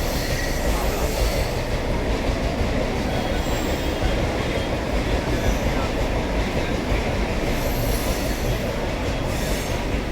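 Vande Bharat Express train running, a steady, continuous rumble of wheels on the track, with faint high squeals near the end.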